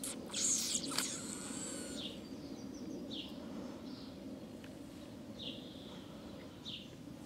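A bird repeating a short high chirp every second or so over a steady low background hum, with a louder burst of higher, gliding calls about a second in.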